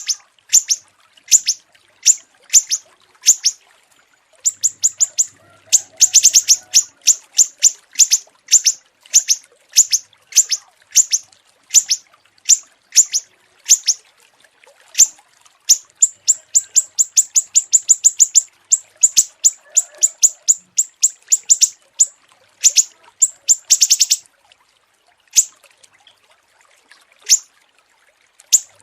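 Small songbird chirping: sharp, high notes repeated in quick series of several a second, speeding into fast rattling runs in places and pausing twice near the end.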